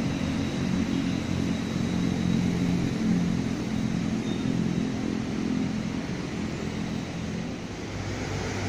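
Argo Parahyangan passenger train moving away down the track, a low steady rumble and engine hum that fades over the last few seconds.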